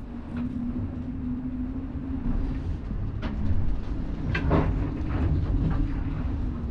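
Sailboat under way in rough weather: a steady low rumble of the boat and sea with a constant hum, broken by several sharp knocks and rattles of loose gear, the loudest about four and a half seconds in.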